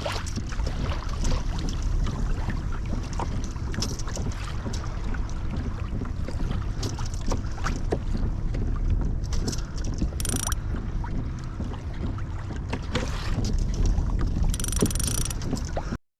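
Water lapping and splashing against a kayak's hull as it moves over open sea, with wind rumbling on the microphone. There are two short, brighter hissing splashes, one about ten seconds in and one near the end, and the sound cuts off suddenly at the end.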